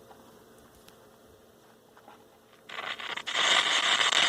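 Heathkit GR-151 six-transistor radio's speaker hissing with static, coming in suddenly and loudly about two and a half seconds in: the radio is powered and producing noise, a first sign of life.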